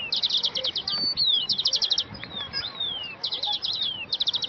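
Songbird singing: quick bursts of rapid high notes alternating with downward-sliding whistles, the phrase repeating several times.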